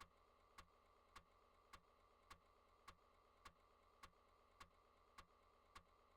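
Near silence with faint, evenly spaced clicks, a little under two a second, over a low steady hum.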